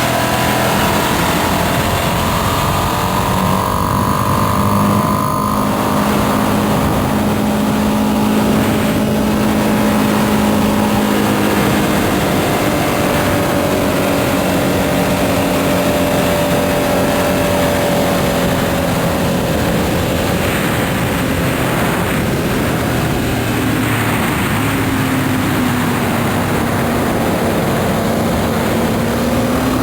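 2025 Ducati Panigale V2S's V-twin engine running at part throttle, its pitch rising and falling slowly without hard revving.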